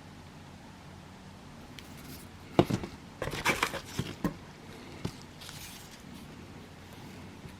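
Fireworks and their cardboard and plastic packaging being handled: a cluster of knocks and crinkly rustles a little under three seconds in, lasting under two seconds, then one more knock about five seconds in.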